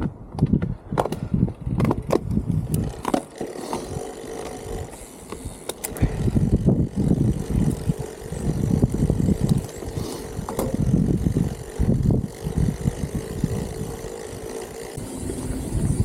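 Wind buffeting the microphone during a bicycle ride, a gusty low rumble that rises and falls, with scattered clicks and rattles from the bike.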